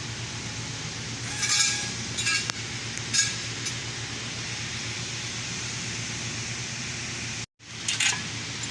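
Several short metallic clinks, like tools or parts being handled, over a steady low mechanical hum. The sound cuts out for a moment near the end.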